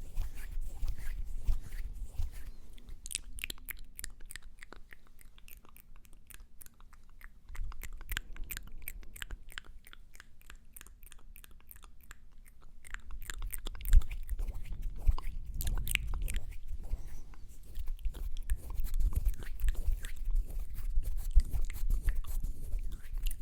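Close-miked ASMR mouth sounds: quick clicks and smacks coming in dense runs, with a low rumble underneath in the second half.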